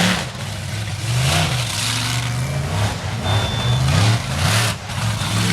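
Monster truck engine revving up and down repeatedly, loud, with a rough noisy hiss over it.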